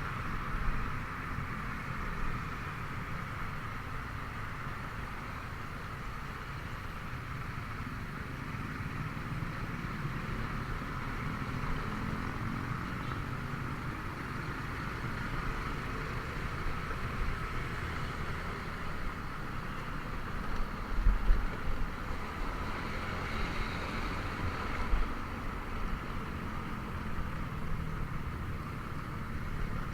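Honda Vario 125 scooter's single-cylinder engine running steadily on the move, with road and wind noise. A few low thumps come about two-thirds of the way through.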